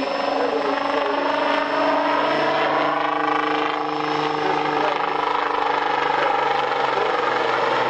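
Aircraft engine droning as it flies past, its pitch falling slowly.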